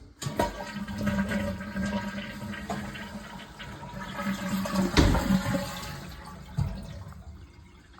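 Toilet flushing: a sudden rush and gurgle of water with a steady low hum, slowly tapering off. A sharp knock sounds about five seconds in.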